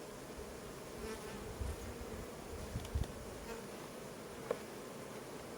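Honeybees buzzing steadily around an open hive, with a few low bumps and a short click as the hive is being worked.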